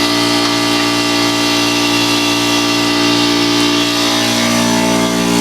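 Craftsman 4 hp single-cylinder oil-free air compressor (1996, 25-gallon tank) running steadily as it pumps up the tank, close to its 120 psi cut-out.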